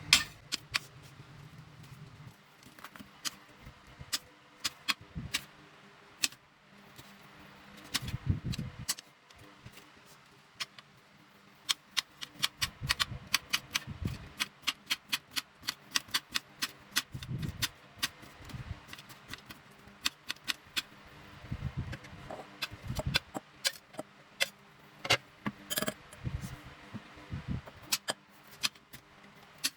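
Household things being handled by hand: many sharp clicks and light clinks, some in quick runs, with a few soft low thuds.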